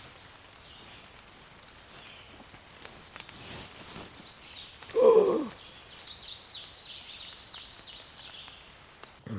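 A bird sings a quick run of high chirps and downward-sweeping notes for about three seconds. The run opens about halfway in with one short, loud, lower call that falls in pitch, the loudest sound here.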